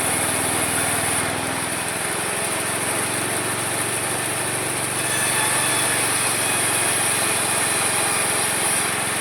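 A homemade mini sawmill's small engine running steadily, with a high whine above it; it gets slightly louder about halfway through.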